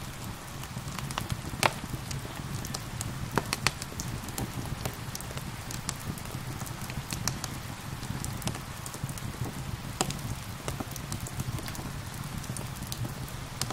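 Wood fire crackling in a fireplace, with irregular sharp pops, the loudest about two and three and a half seconds in and again near ten seconds. Under the pops run a steady hush of gentle rain and a low steady rumble.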